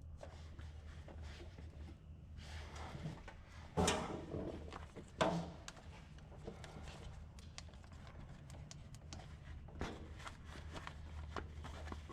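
Clinks and scrapes of hand tools on the fuel-line fittings under a truck, with two louder metal knocks about four and five seconds in, over a steady low hum.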